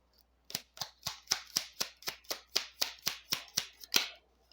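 A deck of cards being shuffled by hand: a quick, even run of about fourteen crisp slaps of cards, roughly four a second, stopping near the end.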